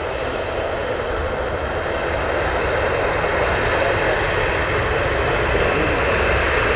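Jet airliner engines running, a steady roar that slowly grows louder.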